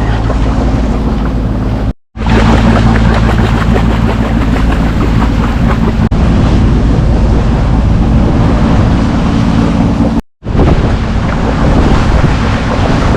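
A sailing yacht under way: a steady low engine drone under a loud hiss of wind on the microphone and water rushing past the hull. The sound drops out briefly twice, about two seconds in and again near ten seconds.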